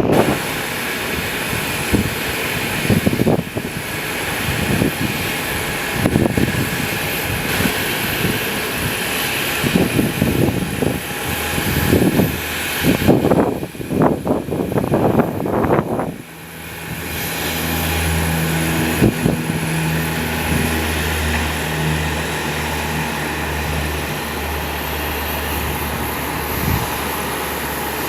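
Aircraft engines running at an airport, with strong gusting wind buffeting the microphone. About sixteen seconds in the gusts ease and a steady low engine drone comes through.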